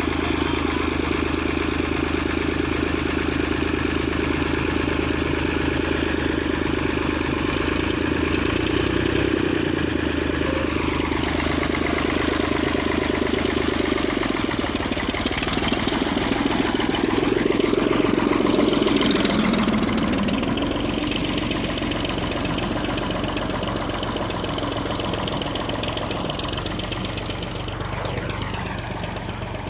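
Escort 355 tractor's diesel engine running steadily. It grows louder a little past halfway, then fades gradually toward the end.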